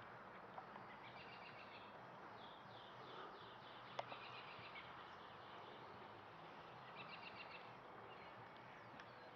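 Faint birdsong: several short, rapid trills from a small bird, one a quick falling series of notes, over quiet outdoor background noise. A single sharp click about four seconds in.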